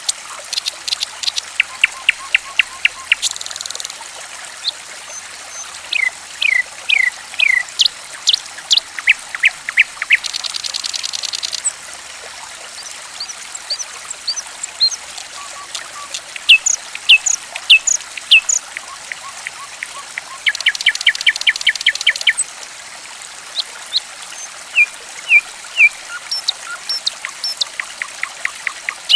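Songbirds calling over a steady trickle of running water: quick series of sharp chirps and short whistled notes, broken three times by buzzy rattling trills.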